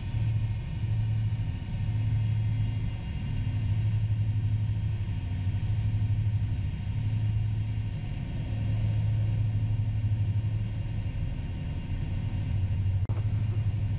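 Gulfstream G-IV cockpit noise while taxiing: a steady low rumble with thin high tones above it, and a brief click near the end.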